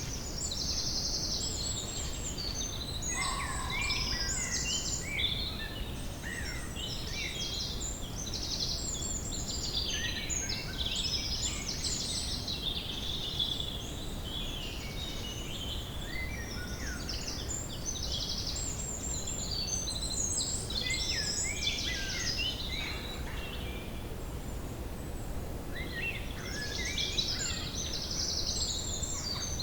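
Woodland ambience: several birds singing and chirping at once, with rapid trills and short whistles, over a steady low background rumble. The birdsong thins out for a few seconds about three quarters of the way through, then picks up again.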